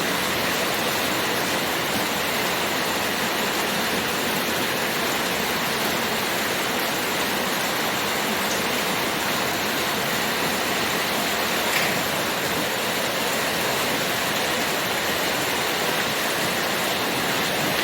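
Steady rush of rain and pouring runoff water, an even hiss with no break.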